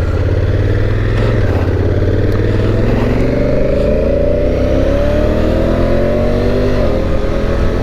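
Honda Africa Twin DCT's parallel-twin engine accelerating, its pitch climbing for a few seconds and then dropping sharply near the end as the dual-clutch transmission shifts up.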